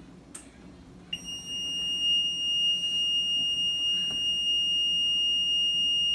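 A Maytag Neptune front-loading washer's control panel sounding one long, unbroken high-pitched beep that starts about a second in, just after a click. The washer is not supposed to beep like this; the owner takes it for an error from a control panel that is probably bad.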